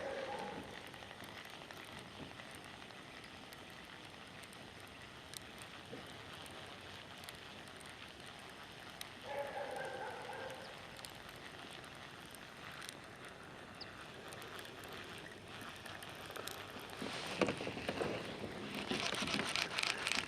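Faint, steady open-water noise around a small aluminium jon boat, with a few scattered light knocks. Near the end it builds to a burst of rapid clicking and rattling.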